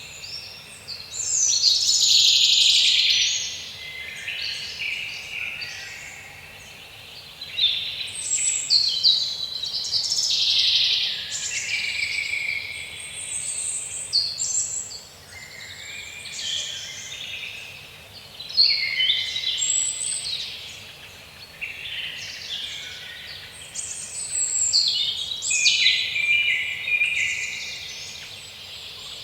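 Small songbirds singing and chirping: quick high twittering phrases and trills, one after another with only brief pauses.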